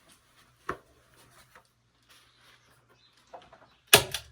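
A single sharp knock under a second in, then a louder brief clatter of several impacts near the end, with faint handling noise between.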